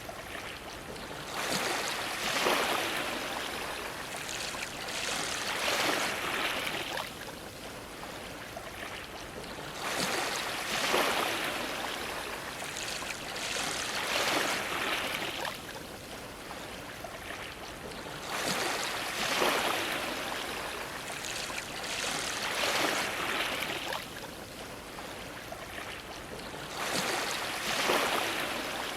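Ocean waves washing in and splashing against a dock, each wave a swell of rushing water that rises and falls every few seconds.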